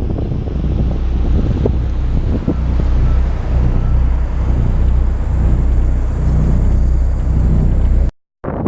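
Bus engine and road noise heard from inside a moving bus, a steady low rumble with wind buffeting the microphone. It cuts off abruptly near the end.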